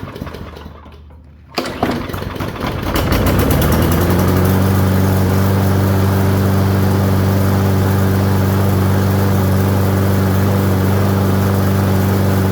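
Lawn mower engine, fitted with an E3 diamond-fire spark plug, starting: it catches about a second and a half in, rises to speed over the next two seconds, then runs steadily at an even pitch.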